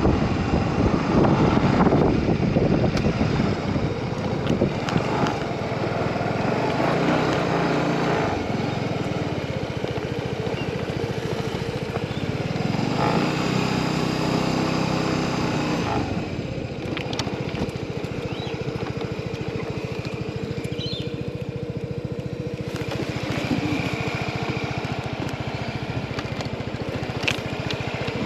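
Motorcycle engine running, its pitch rising and falling with the throttle a couple of times. Wind rushes on the microphone in the first several seconds.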